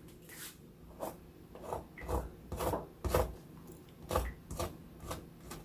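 A knife sawing through a sandwich bread roll on a wooden cutting board, in short, irregular rasping strokes about one or two a second.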